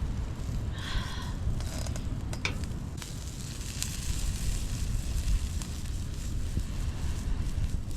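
Wood campfire crackling, with sharp pops scattered through, over a steady low rumble. A short high whistling tone sounds about a second in.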